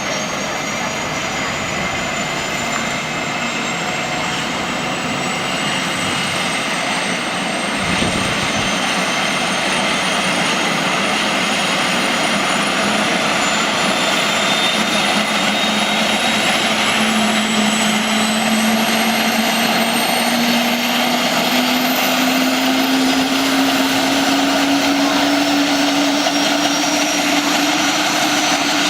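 Police helicopter running: a steady turbine whine and rotor noise, its tones slowly rising in pitch and getting a little louder over the second half.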